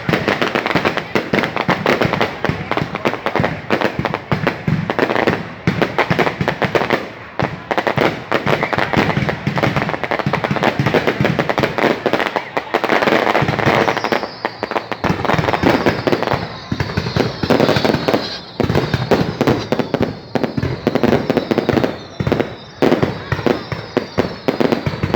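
A fireworks display crackling and popping in a dense, continuous barrage of rapid bangs. From about halfway, faint high whistles glide down in pitch over the crackle.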